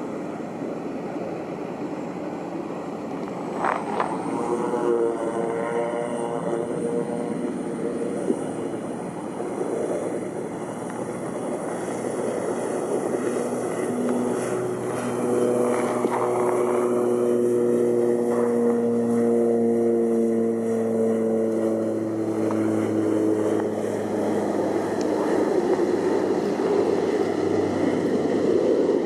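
Airliner engines running at high power as a plane takes off or passes close. A high whine sets in a few seconds in, and the engine tones slowly drift in pitch through the middle of the sound.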